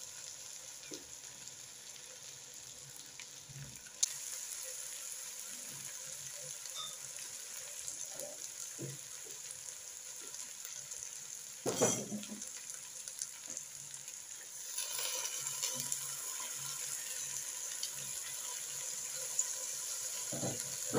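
Chicken pieces, onions and potato chunks sizzling in hot oil in a pot, stirred now and then with a silicone spatula. The sizzle is steady, growing louder about four seconds in and again about fifteen seconds in, with a louder single knock about twelve seconds in.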